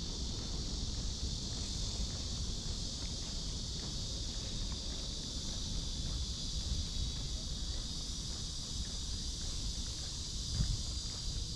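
A chorus of cicadas droning steadily in a high, even pitch, with soft footsteps on a path and a low rumble beneath. A single louder knock comes near the end.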